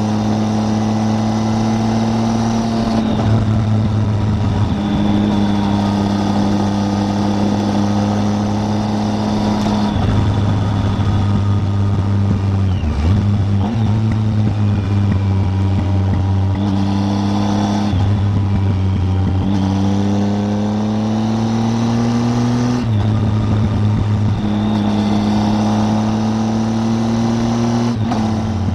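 Triumph Tiger 800's three-cylinder engine pulling along the road. Its note climbs slowly in each gear and drops back at each of about five gear changes.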